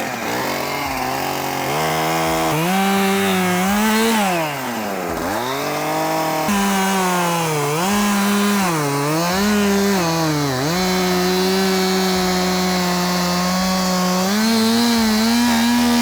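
Skid steer's diesel engine running at high revs while the loader and splitter hydraulics are worked. Its pitch dips and recovers several times, holds steady for a few seconds, then rises again near the end.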